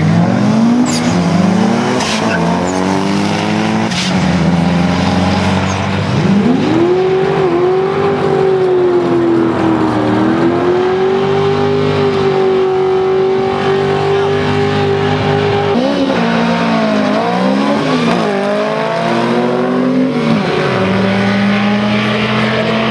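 Drag-racing cars' engines under hard acceleration, the pitch climbing and dropping back several times as the gears change.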